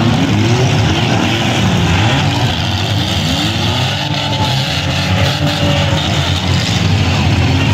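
Several compact cars' engines revving and running together in a demolition derby heat, their pitches rising and falling, over a loud steady din.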